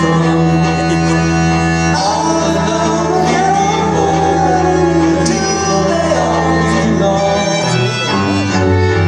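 Live band music with bowed-string parts: sustained string chords under a gliding melody line, with voices singing, in the closing bars of a song. The chords shift about seven and a half seconds in.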